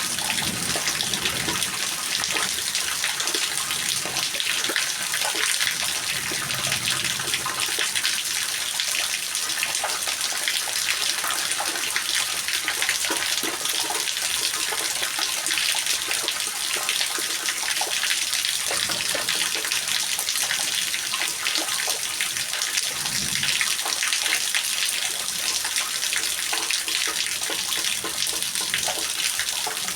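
Steady rain, a dense, even hiss of many drops pattering without a break, with a few faint low swells underneath.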